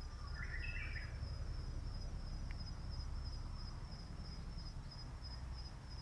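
Crickets calling in a steady, high, finely pulsing trill, with a short bird call about half a second in.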